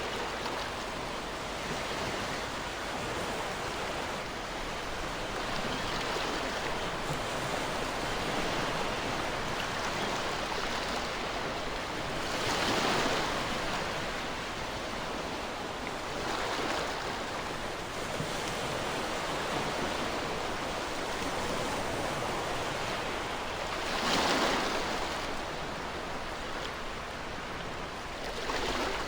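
Ocean waves breaking on a shore over a steady wash of surf, with two larger waves cresting, one about halfway through and one near the end.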